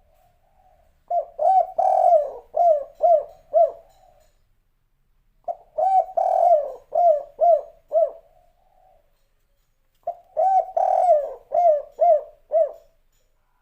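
Spotted dove (derkuku/tekukur) cooing its kuk-3 song three times. Each phrase is a soft lead-in followed by a run of about five or six clear, evenly spaced coos, with short pauses between phrases.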